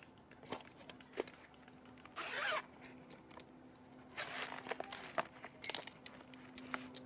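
A zipper being pulled in two short rasping strokes, with light clicks and knocks of handling around them.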